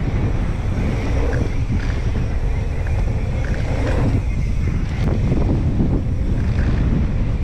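Wind buffeting the microphone of a mountain bike descending a dirt trail at speed, a steady rumble with a few sharp clicks and rattles from the bike.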